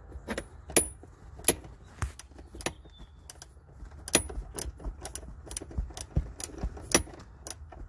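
Irregular sharp metallic clicks and clinks, roughly two a second, of a short hand wrench working a seat-mounting nut loose.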